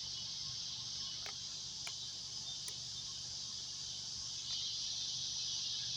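A steady, high-pitched chorus of insects such as crickets, with a few faint clicks.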